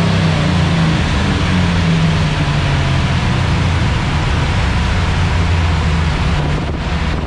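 LT1 small-block Chevy V8 of a truck on a hub dyno winding down after a full-throttle pull: its pitch falls over the first few seconds, then holds at a steady low speed under a loud, even rush of noise.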